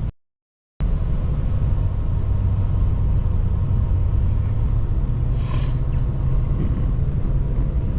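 Steady low rumble of road and engine noise inside a truck cab while driving through a snowstorm. The sound drops out completely for a moment right at the start, and there is a short hiss about five and a half seconds in.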